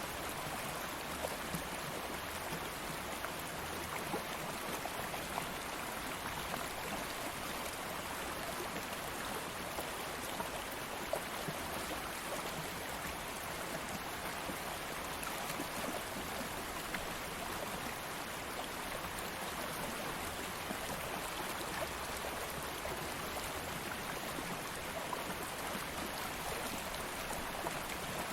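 A stream of flowing water running steadily over stones, with small splashes and drips scattered through it.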